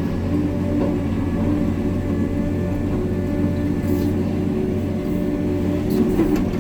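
Hitachi 890 excavator's diesel engine running steadily under work, with a few light knocks about four and six seconds in.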